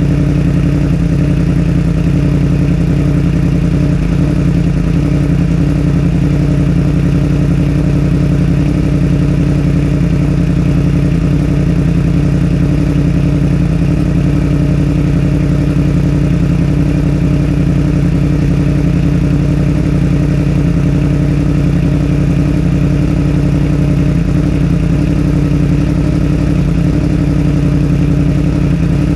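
A 2021 Yamaha R1's 998 cc crossplane inline-four engine idling steadily, with no revs.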